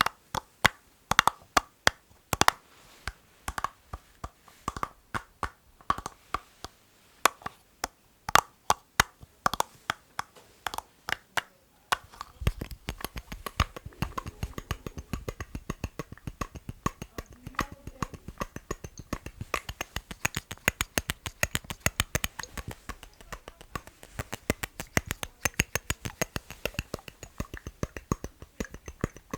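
Rhythmic ASMR tapping on hard objects: separate sharp taps, two or three a second, then about twelve seconds in a much faster, denser run of tapping with a fuller, lower body.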